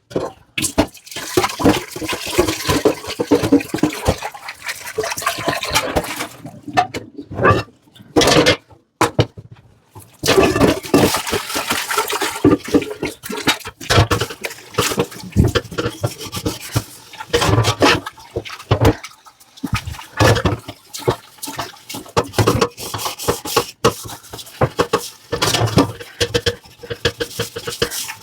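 Dishes being hand-washed at a kitchen sink: tap water running and splashing over them, with scrubbing and clinks of dishes. The water drops away briefly a couple of times.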